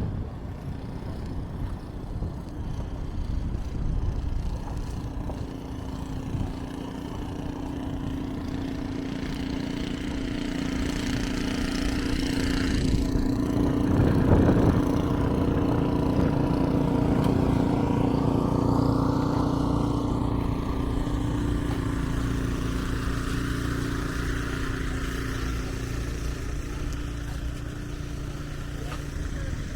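Street traffic: a steady engine hum, with a vehicle growing louder and passing about halfway through before fading.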